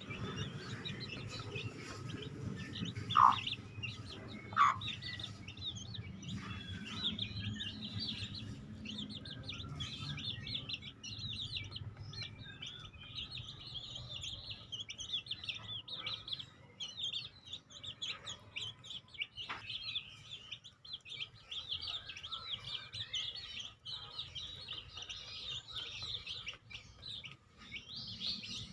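Fowl calling: two loud, short calls about three and four and a half seconds in and a fainter one later, over continuous high-pitched chirping of birds.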